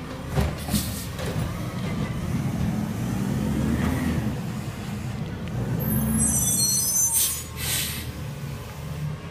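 Garbage truck's diesel engine running steadily, with two knocks near the start, a brief high squeal about six seconds in, then a short hiss of air brakes about seven seconds in.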